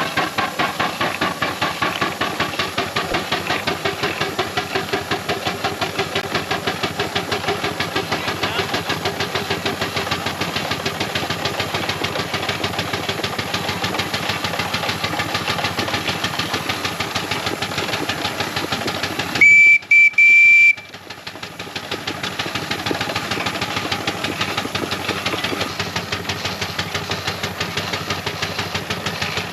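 Scale Burrell single-cylinder steam traction engine running, its exhaust beating fast and evenly. About twenty seconds in its steam whistle sounds twice, a short blast then a slightly longer one, the loudest sound here.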